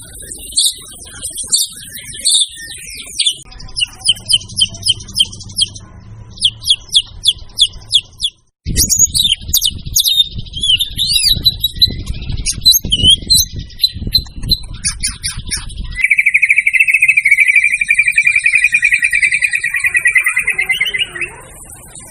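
White-rumped shama (murai batu) singing loudly: quick runs of sweeping, high whistled notes repeated several times a second, broken by a brief cut about a third of the way through. Near the end comes a long, even, rapid trill lasting about five seconds.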